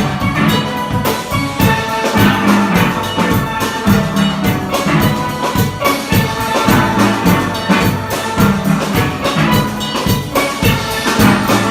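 Steel pan ensemble playing a piece together, many pans striking pitched notes over a steady drum-kit beat.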